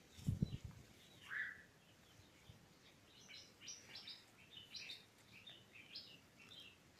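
Small birds chirping faintly in the background, a quick series of short high chirps through the second half. Near the start there are a few brief low thuds.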